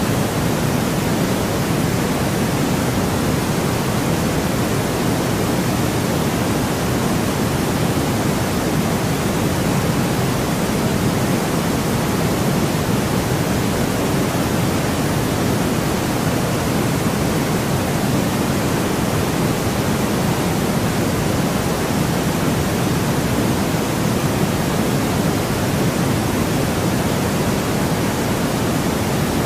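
Steady, unchanging white noise with no breaks or events, fuller in the low range than in the highs.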